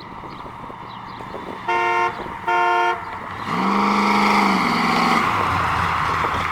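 Car horn sounding two short beeps, followed about a second later by a longer, lower and louder horn-like blast with a rushing noise that steps down in pitch partway through before fading.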